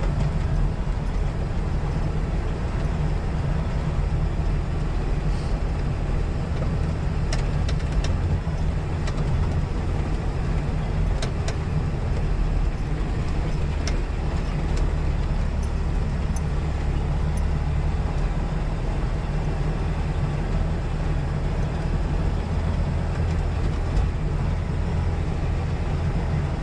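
Semi truck's diesel engine running steadily, with a low rumble and a few faint clicks.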